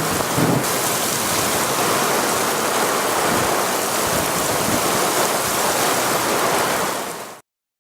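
Heavy rain pouring down in a steady, dense hiss that cuts off suddenly near the end.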